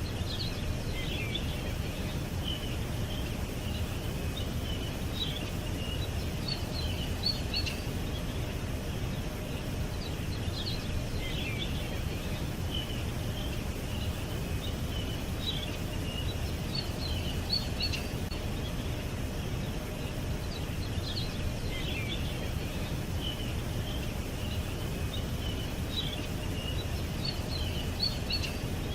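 Small songbirds chirping and twittering in short bursts that come back every few seconds, over a steady low background rumble.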